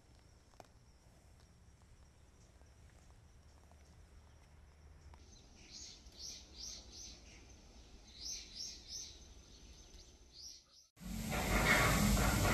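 Quiet outdoor ambience with a bird chirping in quick runs of short, high notes from about halfway through. About eleven seconds in, it cuts to loud background music.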